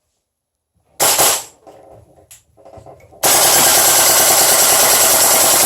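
SNT Matrix M4 gas blowback airsoft rifle with a polymer body firing: a quick double tap about a second in, then a long full-auto burst from about three seconds in that is still going at the end, with the bolt cycling on gas at each shot.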